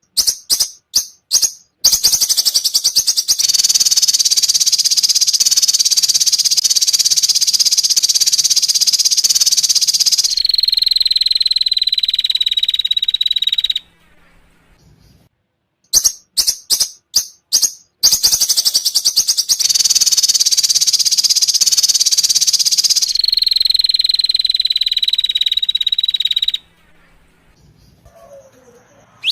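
A high-pitched masteran recording for training songbirds, played as a loop. Several sharp notes lead into a long, fast, buzzing trill that ends in a high whistle, which slides slightly downward and cuts off. The same phrase plays twice.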